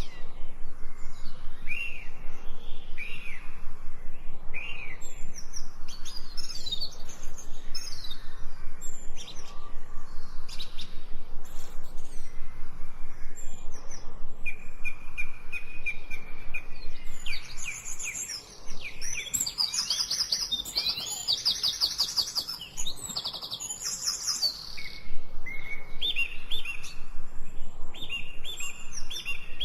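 Several songbirds singing and chirping together in a forest chorus of short whistled calls, with a fast, high trill about two-thirds of the way through.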